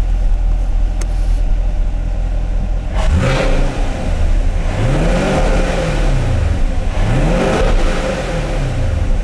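2020 Camaro SS 6.2L LT1 V8 idling, then revved three times: a quick blip about three seconds in, followed by two longer revs that climb and fall back to idle.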